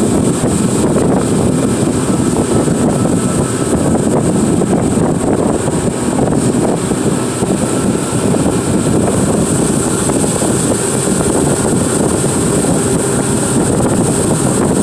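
Tour boat's motor running steadily at speed while underway, with wind buffeting the microphone.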